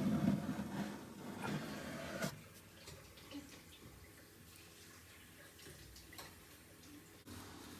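Wet scraping and sloshing in a sink of soaking water as baked-on grime is scraped off a toaster oven part, lasting about two seconds, then only faint water sounds.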